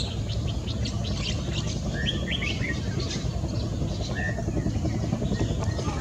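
Birds chirping: many short, high chirps with a few brief whistles, over a steady low background rumble.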